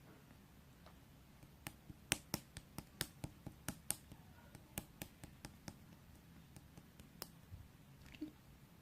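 An irregular run of about twenty short, sharp clicks and taps, beginning about two seconds in, thickest in the first couple of seconds and thinning out before stopping near the end.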